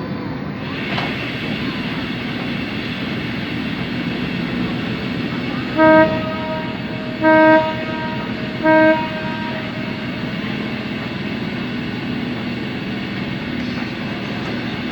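Ferry's horn sounding three short blasts, about a second and a half apart, over the steady running noise of the ship's engines.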